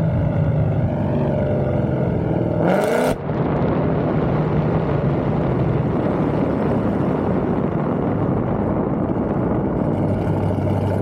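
Car engine running with a steady drone. About three seconds in it revs up briefly with a short burst of noise, then carries on as a dense, rough engine sound.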